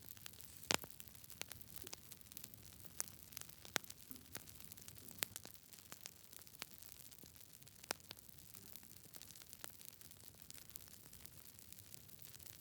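Wood fire crackling in a fireplace: irregular sharp pops and snaps over a soft hiss. The loudest pop comes about a second in.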